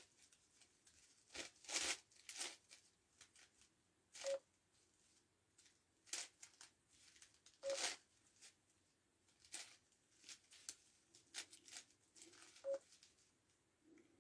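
Plastic 9x9x9 Rubik's Cube being turned by hand during a speedsolve: faint, irregular clicks and scraping rasps of its layers sliding, a short burst every second or so.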